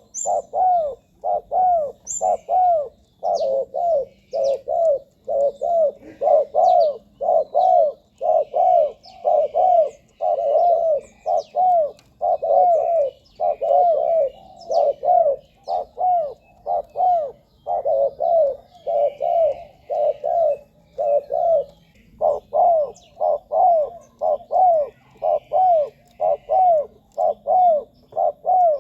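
Spotted dove cooing over and over in runs of short, arched coos, a few a second, with brief pauses between phrases. This is the male's territorial call that Thai keepers play to lure wild doves. Faint high chirps of small birds sound behind it.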